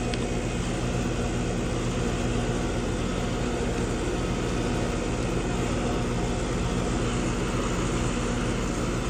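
Carrier heat pump outdoor unit running, its compressor and condenser fan making a steady low hum. The compressor runs but is not pumping heat, which the technician diagnoses as a bad compressor with lost compression.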